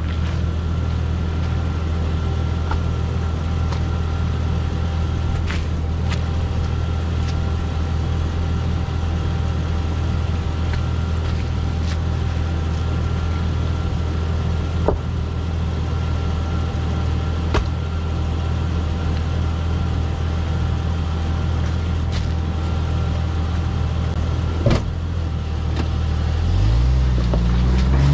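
Jeep's engine running steadily at low revs, with a few short sharp knocks now and then; near the end the engine revs up and grows louder.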